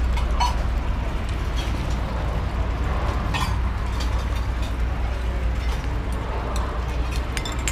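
Eating-place ambience: a steady low rumble with a few sharp clinks, like spoons and chopsticks on bowls, scattered through it.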